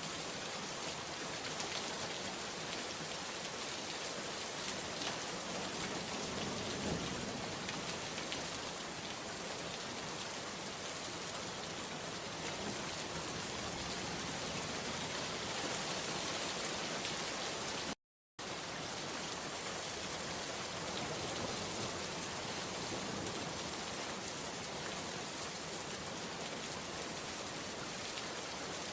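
Steady rain falling, a dense, even patter of drops. About eighteen seconds in, the sound cuts out completely for a split second, then resumes unchanged.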